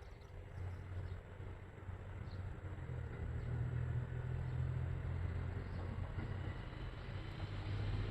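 Diesel railcar engine drone approaching, a low steady hum growing gradually louder.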